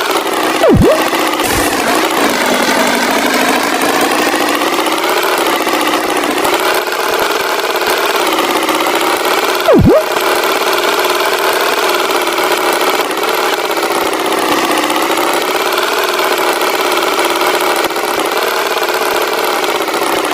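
Cartoon tractor engine sound effect running steadily, its pitch wavering slightly, with two short loud swooping hits, about a second in and about halfway through.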